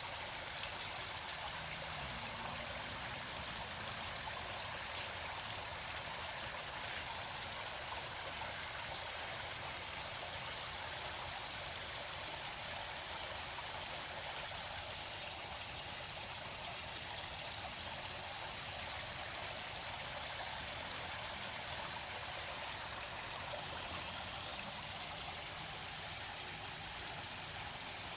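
A river flowing, a steady, even sound of running water.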